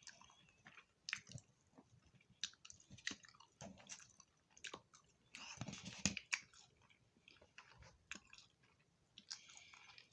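Close-miked chewing and mouth sounds of a person eating fried fish and tater tots: irregular small wet smacks and clicks, with two louder, noisier stretches about halfway through and near the end.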